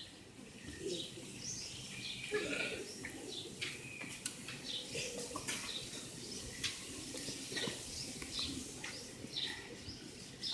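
Birds chirping repeatedly in short, scattered calls over a faint low background murmur.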